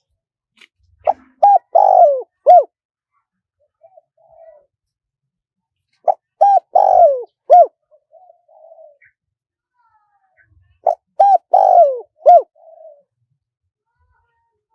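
Spotted dove cooing: three phrases of several short coos, one phrase about every five seconds, each with a longer note in the middle that falls in pitch.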